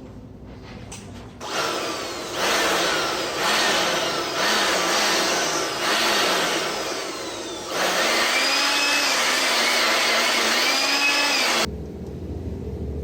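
Electric power duster blowing air in a string of short blasts, then one long blast that cuts off suddenly near the end. A whine wavers up and down in pitch through the blowing.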